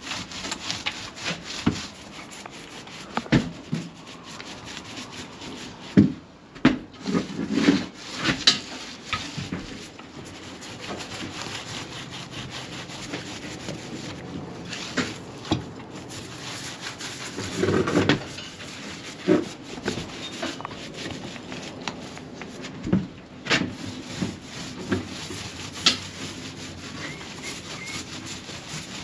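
Irregular rubbing and scraping, broken by scattered knocks and clicks of handling.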